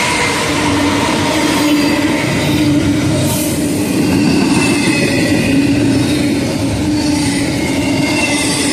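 Double-stack container train's well cars rolling past at close range: a loud, steady rumble of steel wheels on rail, with thin high squealing tones from the wheels coming and going through it.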